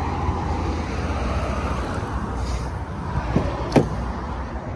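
Steady outdoor rumble of road traffic with wind noise, and two short sharp clicks about three and a half seconds in.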